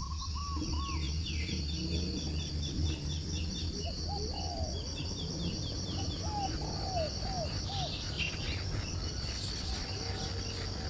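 Outdoor chorus of insects trilling steadily, with several birds calling over it in runs of short repeated chirps and lower rising-and-falling whistled notes, above a steady low rumble.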